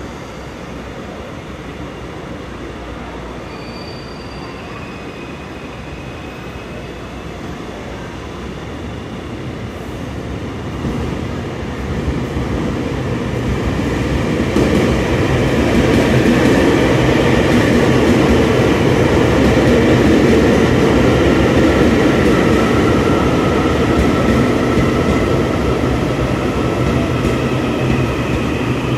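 A train running on rails, a steady rumble that grows louder about halfway through, with faint high whining and squealing tones drifting slowly in pitch.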